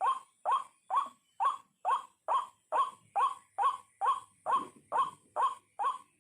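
White-breasted waterhen (ruak-ruak) calling: a long, even run of short, downward-bending notes, a little over two a second.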